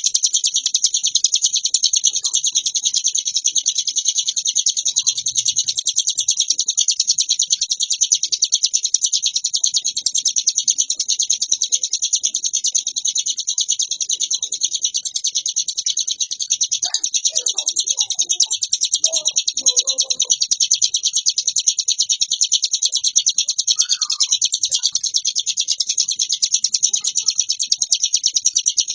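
Ciblek gunung (a small prinia songbird) singing a continuous, very rapid, high-pitched chattering song without a break, the nonstop 'ngebren' delivery prized by songbird keepers.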